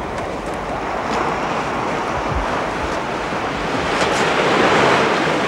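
Sea waves washing in, a steady rush with one surge that swells to its loudest near the end.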